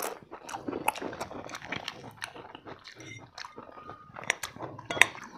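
Close-up eating sounds: chewing and biting into fried chicken drumsticks, with scattered crunches and wet clicks. A sharper click stands out about five seconds in.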